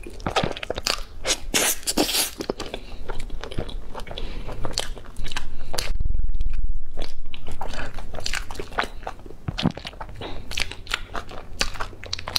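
Close-miked mukbang eating sounds: a person biting into and chewing soft, cheesy food, with many short wet clicks and smacks. About halfway through, a louder muffled low rumble lasts a couple of seconds while the sharper mouth sounds stop.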